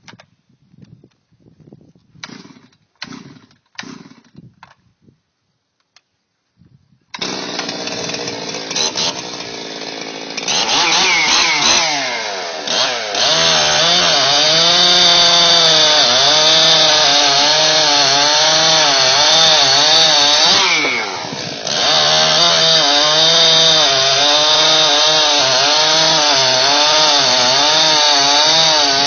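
Ported two-stroke chainsaw cutting oak with its rakers set low for pine, so the chain bites hard and the engine labours, its pitch wavering under load. The saw comes in suddenly after several seconds of scattered rustling and runs lighter for a few seconds before the heavy cut. Its revs drop briefly about two-thirds of the way through, then it cuts on.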